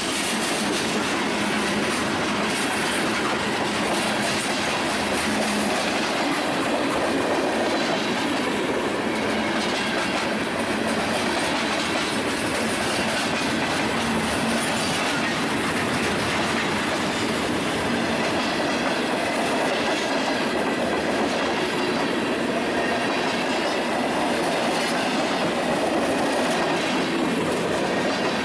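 Train rolling past, its railcar wheels clattering over the rails in a steady, unbroken run.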